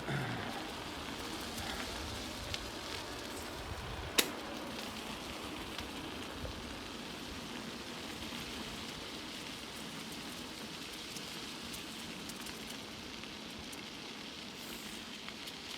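Steady rushing, crackling noise of a bicycle being ridden along a path, picked up on a handheld phone, with one sharp click about four seconds in.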